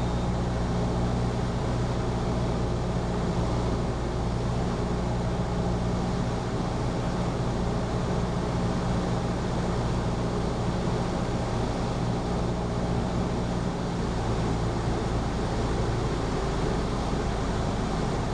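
Cessna 172P's four-cylinder Lycoming engine and propeller droning steadily in flight, its low hum easing slightly about three-quarters of the way through.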